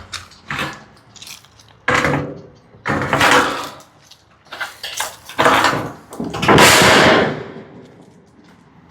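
Thin corrugated metal roofing panels being handled and set down, clattering and rattling in a few separate loud clanks, the longest one about two-thirds of the way in.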